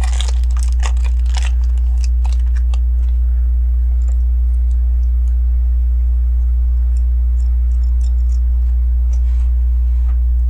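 Small plastic clicks and taps of LEGO pieces being handled and fitted together, many in the first few seconds and then scattered, over a steady low electrical hum.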